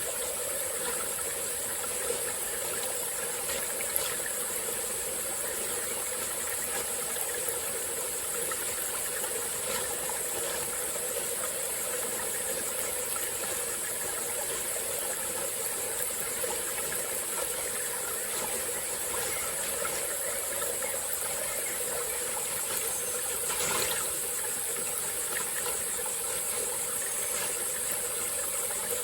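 Small tropical-forest stream flowing steadily, under a continuous high-pitched insect drone. A brief louder swell comes near the end.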